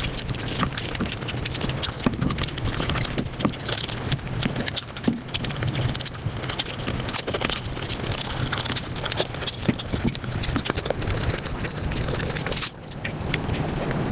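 Mukbang eating sounds sped up about five times: a dense run of rapid chewing clicks, smacks and crunches. There is a brief drop about three-quarters of the way through, where one clip gives way to the next.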